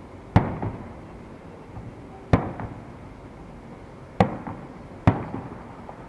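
Aerial fireworks bursting overhead: four sharp bangs, the first three about two seconds apart and the last less than a second after the third, each trailing off in a short echo.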